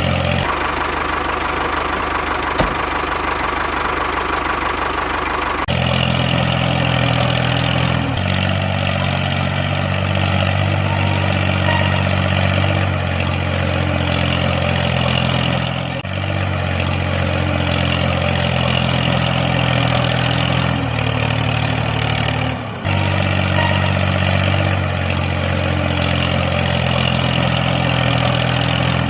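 Tractor engine running steadily at an even pitch, with abrupt jumps in the sound several times.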